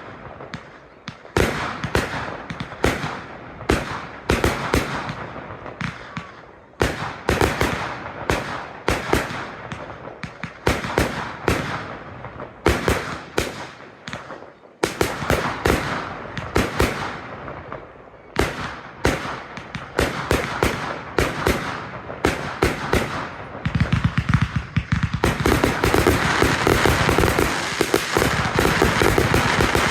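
Professional display fireworks: aerial shells bursting in a quick series of sharp bangs with echoing tails. About 25 seconds in, they build into a dense barrage of rapid-fire cracks.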